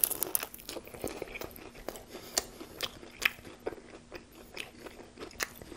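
A man biting into a Subway Italian BMT on flatbread, a sharp bite at the start, then chewing it with irregular crisp crunches.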